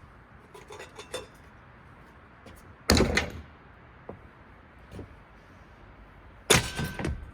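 Blades and blade arms of a Hawkins ceiling fan being smashed off: two loud bangs with a short ringing tail, about three and a half seconds apart, with smaller knocks and rattles between them.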